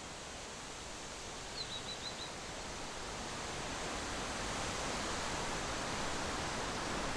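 Steady outdoor rushing noise that slowly grows louder, with a quick run of about five high chirps about a second and a half in.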